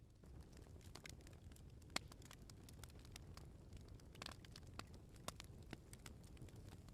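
Wood bonfire crackling quietly, with irregular sharp pops and snaps over a low, steady rumble. The strongest snaps come about two seconds in and again around four to five seconds in.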